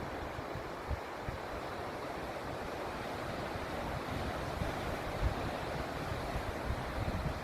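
Sea waves washing steadily against a rocky shore, with wind gusting against the microphone in low, irregular rumbles.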